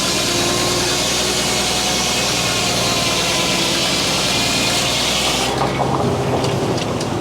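Frick sawmill's circular head saw cutting through a poplar log, a loud steady hiss over the constant note of the power unit. About five and a half seconds in the cutting noise stops as the blade clears the log, leaving the engine and free-spinning saw running with a few sharp clacks.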